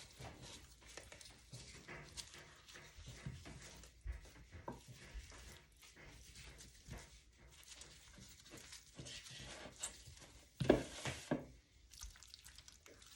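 Kitchen handling sounds: scattered small knocks and clicks as pieces of seasoned chicken are placed into a glass baking dish, with one louder clatter near the end.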